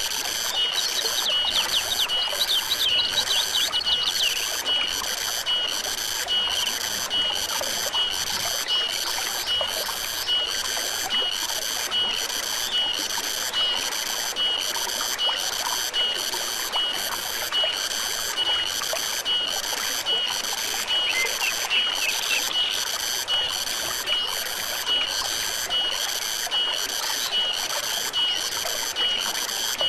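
Stream water trickling and running steadily, under a high pulsing animal call that repeats a little over once a second. A quick flurry of bird chirps comes in the first few seconds and again briefly near the two-thirds mark.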